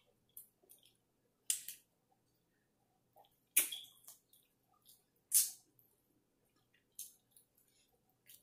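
Close-miked mouth sounds of eating barbecue ribs: separate wet lip smacks and chewing clicks, loudest about three and a half and five and a half seconds in.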